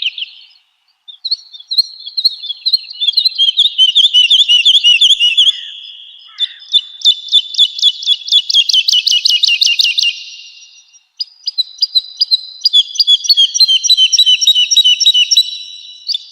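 Woodlark singing: long phrases of fast repeated whistled notes, each phrase a rapid trill that runs for several seconds, with short pauses about a second in and again about ten seconds in.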